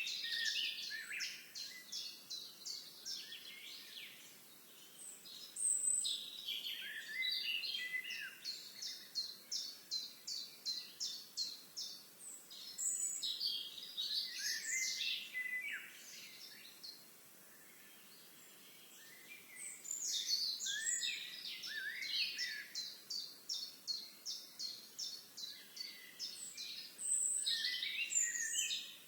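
Songbirds singing: bursts of warbling, tumbling phrases alternating with long runs of evenly repeated high chirps, several a second, with short lulls between songs.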